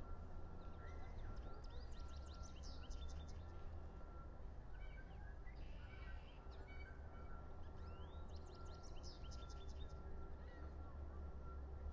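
Bird calling in two quick series of high, sharp chirps, one near the start and one about two-thirds through, with a few fainter calls in between. Under it runs a steady low rumble of wind on the microphone.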